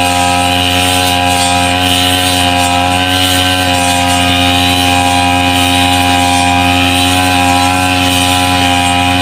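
Brush cutter engine running at a steady speed, an even drone that holds the same pitch throughout.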